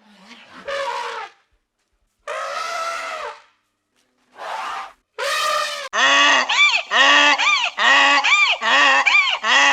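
Geese honking: a few separate calls in the first half, then from about six seconds a fast run of short honks, two or three a second.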